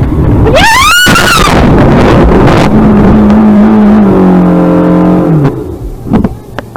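Loud car noise, with a squeal that rises and falls in pitch about a second in, typical of tyres skidding. A steady held tone follows from about three seconds in, sags in pitch and stops about a second before the end.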